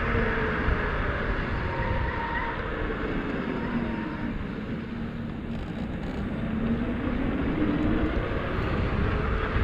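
Motor of a 72 V, 5000 W DIY electric-bike conversion kit whining under way: the whine falls in pitch as the bike slows, then rises again as it speeds back up, over a steady rush of wind and road noise.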